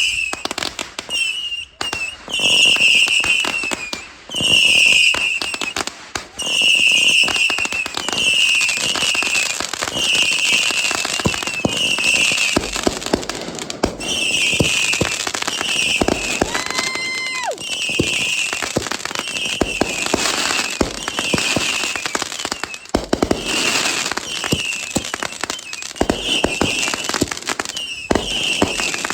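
Consumer fireworks going off: a dense run of pops and crackles with short shrill notes about once a second, and a single steady whistle about halfway through.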